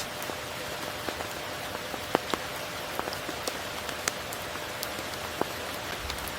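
Steady rain falling, with single drops now and then striking close by as sharp ticks, the loudest a little over two seconds in.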